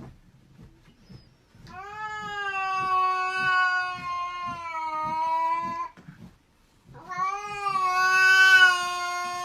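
A domestic cat yowling: two long, drawn-out calls of about four seconds each, the second louder.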